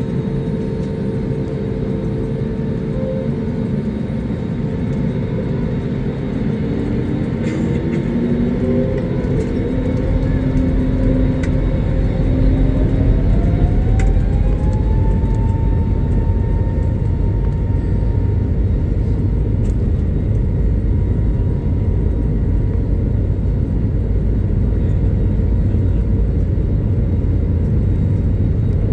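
Airliner's jet engines spooling up, a whine rising steadily in pitch over several seconds and then holding, as a deep rumble builds and stays heavy: the plane's takeoff roll heard from inside the cabin.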